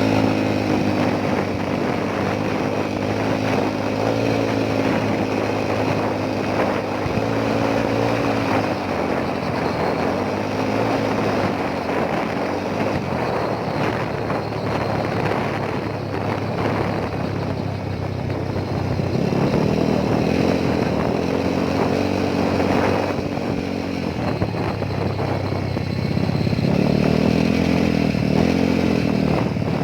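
Motorcycle engine running on the move, its pitch rising and falling as the speed changes, over a steady rush of wind noise.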